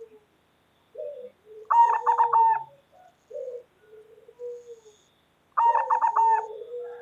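Zebra dove (perkutut) cooing: two loud bouts of quick, rolling call notes, one about two seconds in and another near the end, with softer low coos between them.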